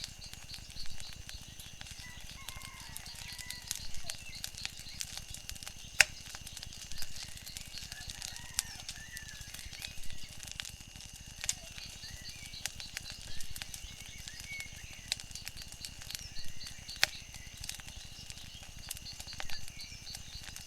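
Wood fire crackling with irregular small pops and two sharper snaps, about 6 and 17 seconds in. Birds chirp in the background over a steady high-pitched trill.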